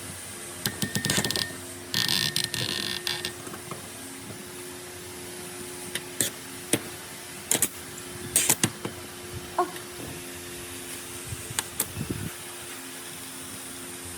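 Workshop handling noises: scattered metal clicks and knocks, with a short whirring burst about two seconds in, over a faint steady hum.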